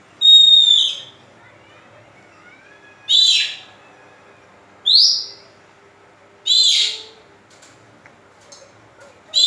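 Oriental magpie-robin (kacer) giving loud, short whistled calls, each under a second long, a couple of seconds apart: four in all, with a fifth starting at the very end.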